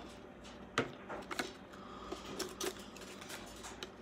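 Plastic packaging being handled and opened to free a diecast model car: scattered clicks, taps and rustling, the sharpest click a little under a second in.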